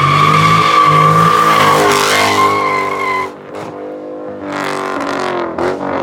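Hemi V8 muscle car held at high revs with its rear tyres squealing for about three seconds, as in a burnout. The squeal stops suddenly, the engine drops back, and it is revved again a couple of times near the end.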